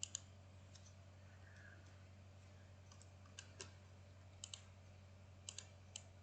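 Computer mouse clicking while drafting: about a dozen sharp clicks, some in quick pairs like double-clicks, over a steady low electrical hum.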